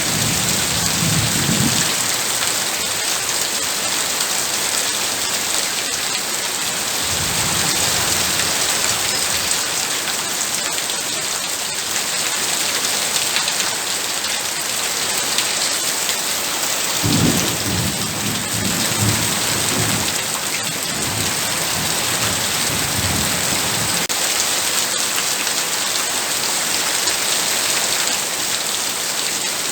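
Heavy rain falling steadily, a dense even hiss. Low rolls of thunder come in right at the start, again about seven seconds in, and in a longer spell from about seventeen to twenty-four seconds.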